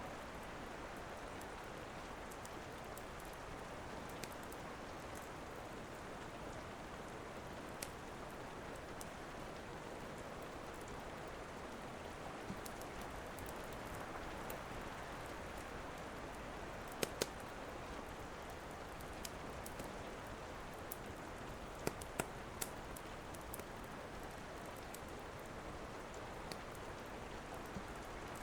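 Steady rain with scattered sharp crackles and pops of a wood fire, a few louder pops coming in quick pairs past the middle.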